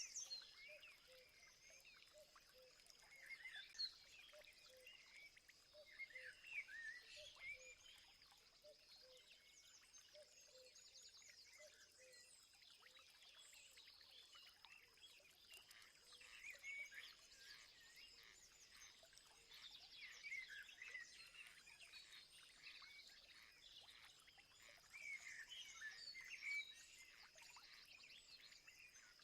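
Faint chorus of many birds chirping and calling over one another, with a steady high-pitched tone running underneath. For the first dozen seconds a run of short, low, evenly repeated notes sounds beneath the chirps.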